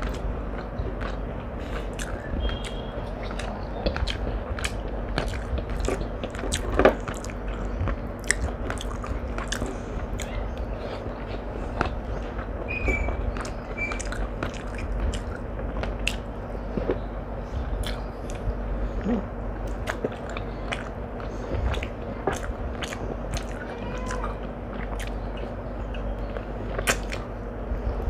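Close-miked eating: a person chewing and biting food, with many short wet mouth clicks and smacks throughout, over a steady low hum.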